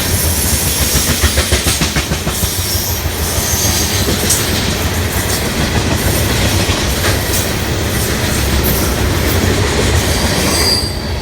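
Ethanol tank cars of a freight train rolling past, wheels clicking over rail joints over a steady rumble, with a few brief high wheel squeals.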